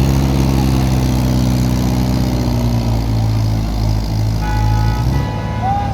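Tractor engine running steadily, its note shifting about three seconds in and dropping to a lower chug near the end. A steady higher tone sounds over it from about four and a half seconds in.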